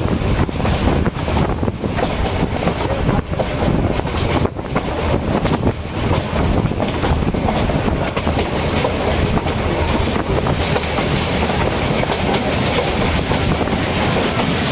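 Passenger train running along the track, heard from aboard, its wheels clattering over the rails with a steady rush of running noise; the clatter is most marked in the first half.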